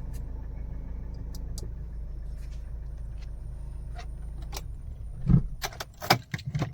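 Mahindra Scorpio's diesel engine idling as a steady low hum. About five seconds in come a heavy thump and a run of sharp clicks and knocks.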